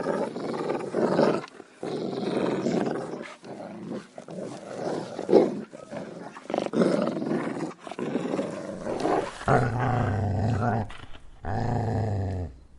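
Angry dog growling in a run of rough bursts, then two longer, deeper growls near the end: an aggressive warning.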